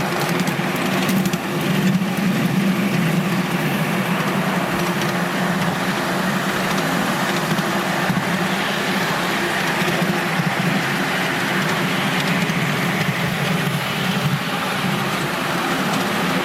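Double-headed miniature live-steam train running, a steady continuous mechanical sound.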